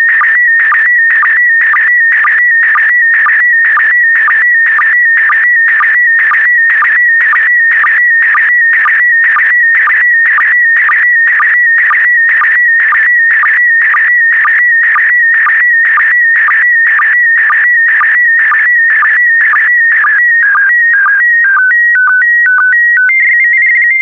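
PD120 slow-scan television (SSTV) signal: a loud warbling tone around 2 kHz that carries the image line by line, broken by sync pulses about twice a second. Near the end it changes to a few short, stepped steady tones as the transmission finishes.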